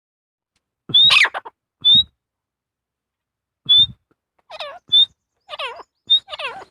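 Teetar (francolin/partridge) calling: short, high, rising whistled notes repeated at irregular intervals, with several falling, harsher notes mixed in during the second half.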